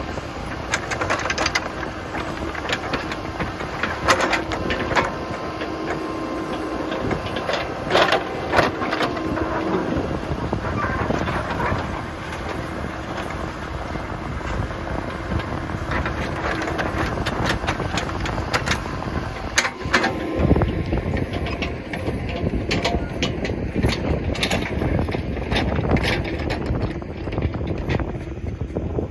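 Backhoe running steadily with a held engine hum while digging, with many sharp knocks and clanks spread throughout. The higher part of the noise drops away about twenty seconds in, where there is a heavy thud.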